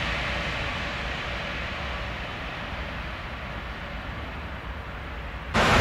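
Trenord regional electric train running away along the line, its rumble slowly fading. Near the end it cuts off abruptly into the much louder rush of a passing train.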